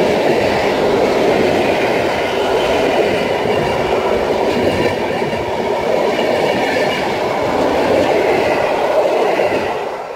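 A train of passenger coaches rolling past close by, a steady loud wheel-on-rail rumble with some clickety-clack. It fades away near the end as the last coach goes by.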